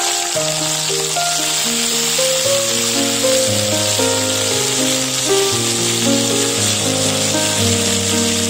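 Sliced bitter gourd and potato frying in hot oil in a wok: a steady sizzling hiss, heard under background music.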